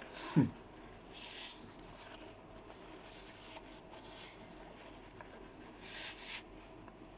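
Close-miked eating of a kebab: a loud short low thump about half a second in, then several short bursts of chewing and rustling of the food and its tray.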